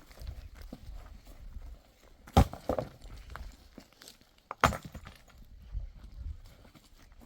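A few sharp knocks or impacts over a low rumble, the two loudest about two and a half and four and a half seconds in, the first followed by a couple of smaller knocks.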